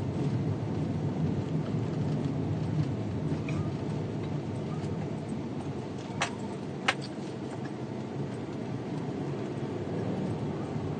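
Steady low rumbling noise with no pitch to it, broken by two short sharp clicks about six and seven seconds in.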